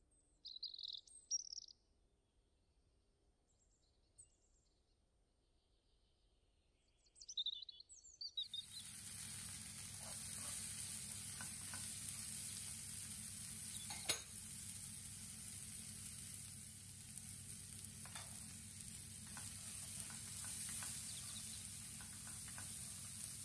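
Near silence with a few short high chirps, then about eight seconds in food starts sizzling in hot oil in a pan and keeps up a steady sizzle, with a few light taps of a utensil, one sharper tap about halfway through.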